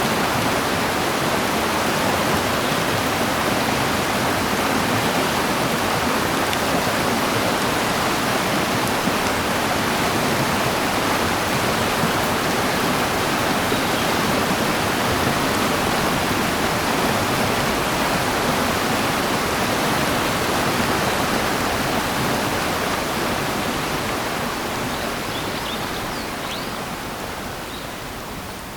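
Steady rush of running water, a full even noise that fades down over the last several seconds, with a few faint high chirps coming in near the end.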